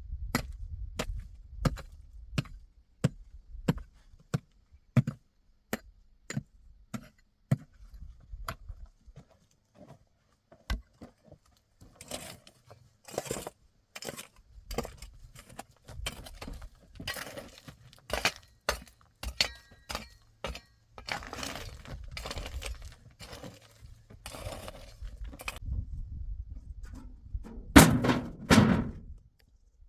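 A run of sharp knocks from hand work, single strikes about one or two a second at first, then rougher cracking and clattering strikes, with the loudest just before the end.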